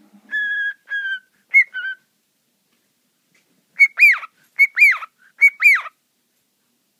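Cockatiel whistling: first a few short, steady whistled notes, then after a pause three loud calls, each a short note followed by a sharp rising-and-falling whistle.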